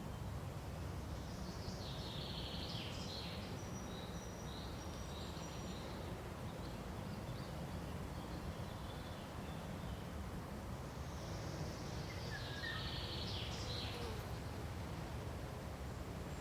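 Songbirds singing in two short bouts, high chirps and trills about two seconds in and again past the middle, over a steady low rumble of background noise.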